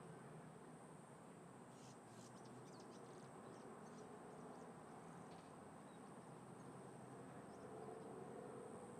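Faint outdoor ambience: a low, steady rush of wind and distant traffic, with a thin, steady high-pitched whine over it. A scatter of faint short high ticks or chirps comes between about two and five seconds in.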